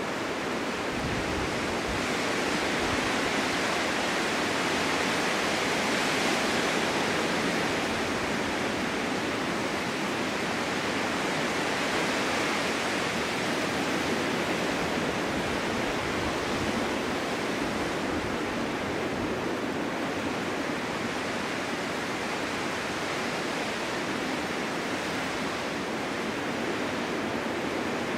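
Strong winter wind blowing steadily in a snowstorm, a continuous hiss that swells a little a few seconds in and then eases slightly.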